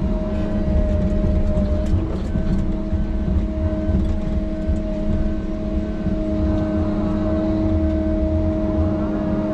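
Heavy machine's diesel engine running steadily under load while it pushes out dirt. Partway through, a faint beep repeats about twice a second for several seconds.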